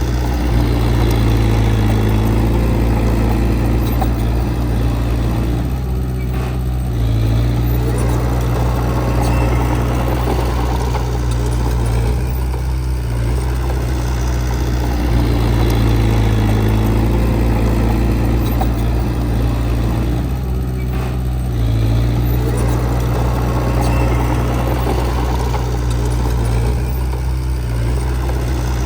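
Heavy earthmoving machine's diesel engine running steadily under work, with a low drone. It eases briefly and picks back up about every six to eight seconds.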